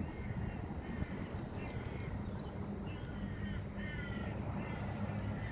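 Crows cawing repeatedly, short harsh calls that drop slightly in pitch, over a steady low hum.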